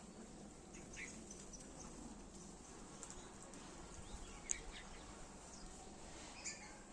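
Faint bird chirps: a few short, high calls scattered over quiet background noise, the sharpest about four and a half seconds in.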